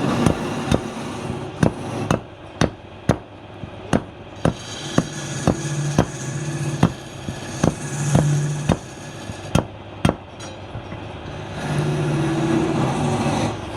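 Repeated sharp hammer blows, irregular but roughly one or two a second, with a low hum coming and going in the background.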